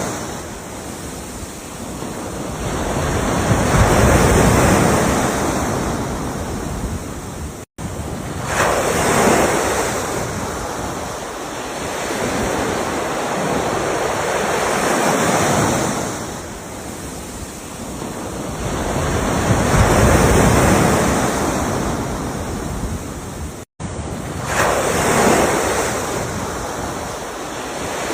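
Ocean waves breaking and washing up the shore, a rushing surge that swells and fades about every five to six seconds. The sound cuts out for an instant twice.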